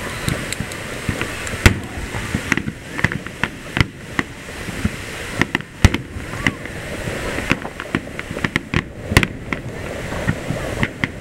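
Aerial fireworks shells bursting over the sea: a fast, irregular run of bangs and reports. The loudest come about two seconds and about six seconds in.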